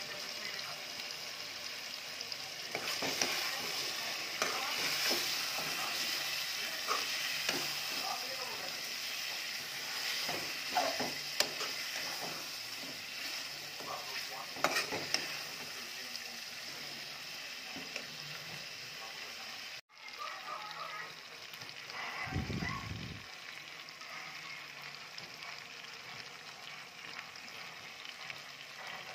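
Chicken pieces frying in a spiced masala gravy in a metal pot: a steady sizzle, with the clicks and scrapes of a spoon stirring against the pot through the first half. After a break near the middle the sizzle goes on more quietly, with one dull bump.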